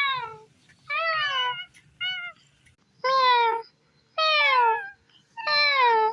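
A domestic cat meowing repeatedly: six meows, about one a second, each falling in pitch, one of them shorter than the rest.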